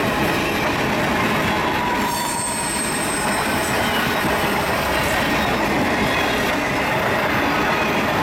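Freight train of covered grain hopper cars rolling past close by: a steady rumble of steel wheels on rail, with a brief high-pitched wheel squeal about two seconds in.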